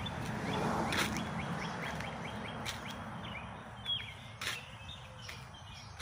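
Birds chirping outdoors: a quick, even run of high chirps starting about a second in, then a few separate calls, over a low steady rumble that slowly fades. A few sharp clicks are heard along the way.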